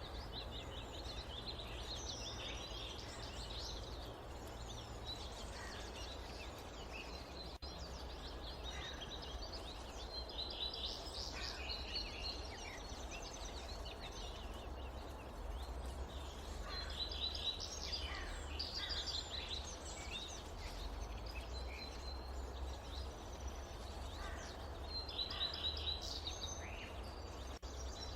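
Forest ambience: birds calling and chirping in several short bouts over a steady low rumble.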